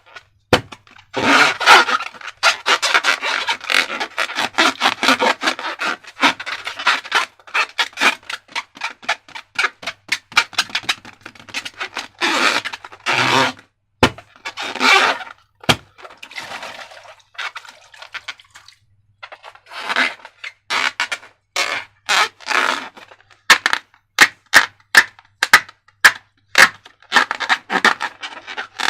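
Slime being handled with transparent balloons: sticky, crackling squishes and scraping, with sharp clicks, a quick run of them near the end.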